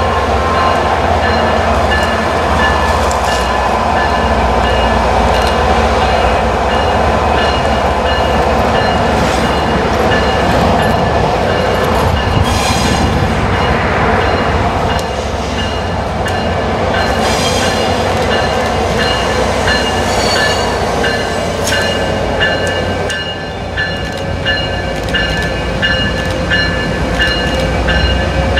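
MBTA diesel locomotive slowly approaching with its train, the engine running steadily, with a regular high-pitched ringing and some wheel squeal from the slow-moving cars.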